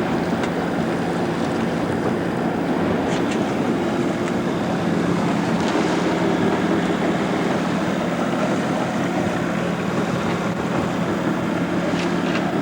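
A boat's motor running steadily under way, a constant hum mixed with wind on the microphone and water rushing past the hull.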